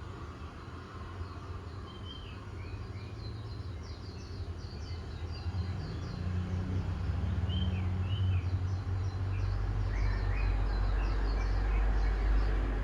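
Small birds chirping and twittering throughout, while a low engine rumble from a motor vehicle swells from about halfway through, becomes the loudest sound and drops away at the end.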